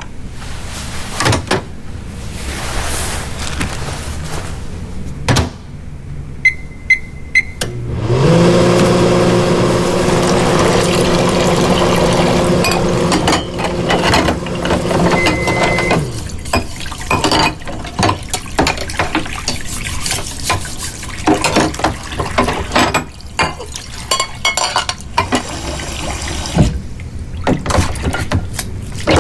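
Household kitchen sounds: clinks, knocks and handling noises around liquid being poured or filled. An appliance beeps three times, then its motor starts with a rising hum and runs steadily for about eight seconds before stopping.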